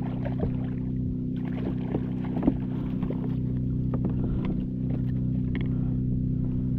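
Steady low hum of a running boat motor, with scattered small knocks and clicks of handling on board.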